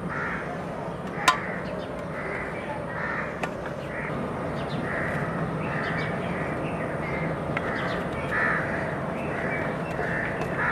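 A bird calling over and over, short harsh calls roughly once a second, over a steady background noise. A single sharp knock about a second in is the loudest sound, with a fainter click a couple of seconds later.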